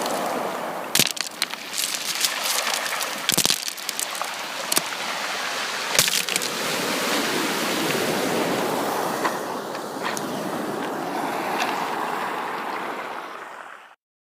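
Sea waves washing onto a shore in slow surges, with a few sharp clicks. The sound fades and stops near the end.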